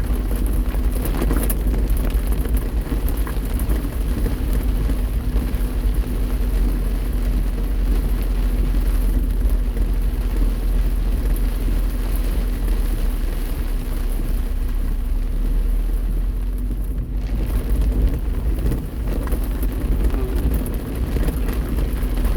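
Car driving through heavy rain: a steady low road rumble with the hiss of tyres on the wet road and rain on the car, heard from inside the cabin.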